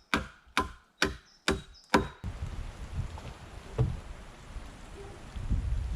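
Five quick blows of a hand tool biting into log wood, about two a second. Then an abrupt switch to steady outdoor wind noise.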